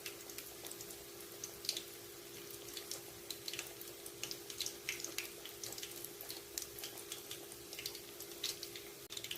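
Marinated Chicken 65 pieces deep-frying in hot oil in a kadai: a steady hiss with frequent irregular crackles and pops, over a steady low hum.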